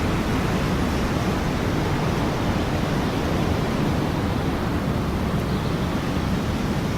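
Ocean surf sound, a steady wash of waves without distinct breaks.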